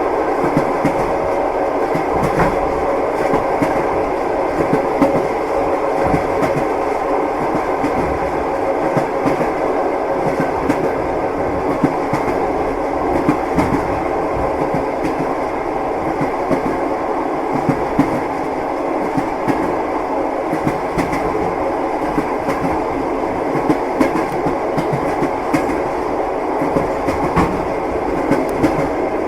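Train wheels clattering on the rails: a steady running rumble with frequent, irregular sharp knocks.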